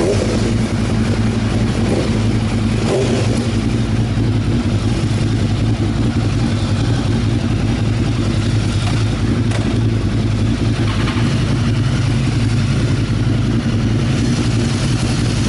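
Motorcycle engine running steadily at an even pitch, with a steady rushing noise over it.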